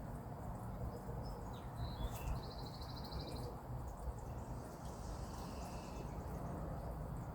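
Small wild birds chirping, with a few short calls and then a quick even trill about two to three seconds in, over a steady low outdoor rumble.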